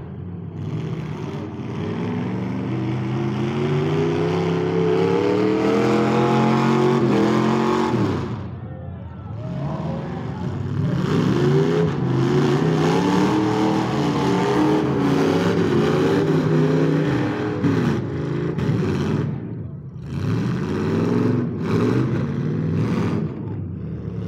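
Engines of modified demolition derby cars revving hard, several at once, their pitch climbing and falling repeatedly. There are brief lulls about eight and twenty seconds in.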